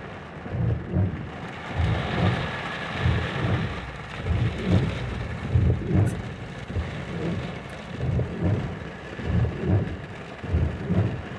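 Rain falling steadily, with irregular low rumbling thumps about once or twice a second.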